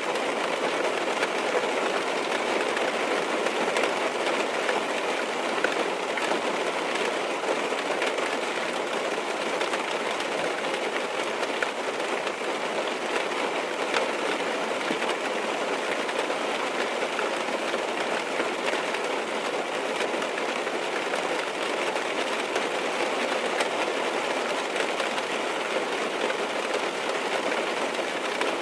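Steady rain falling on a car's roof and windows, heard from inside the car: an even wash of noise dotted with countless small drop ticks.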